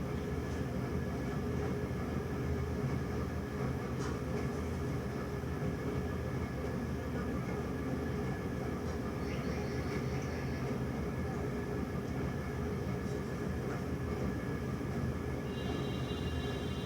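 A steady low rumble with a faint hum, even throughout, with a faint high steady tone coming in near the end.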